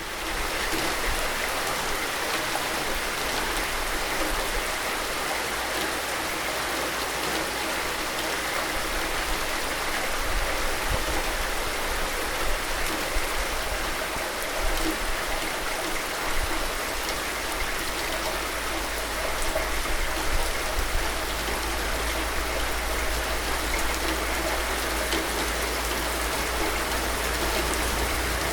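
Steady rain falling: a continuous, even hiss with a low rumble underneath.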